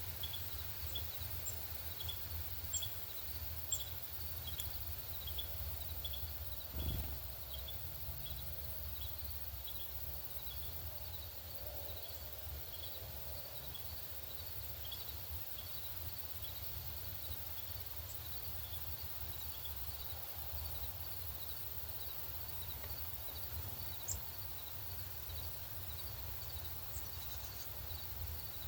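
Outdoor ambience: a steady low rumble with short high chirps repeating every half second or so, and a single low thump about seven seconds in.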